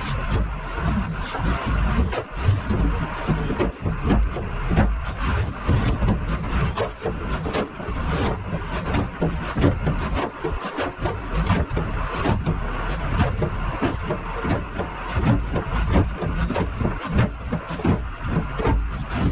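Loader engine running, with many short irregular knocks and rattles over it.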